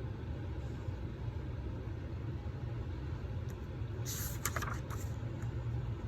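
Steady low background hum, with a brief rustle and a few clicks about four seconds in.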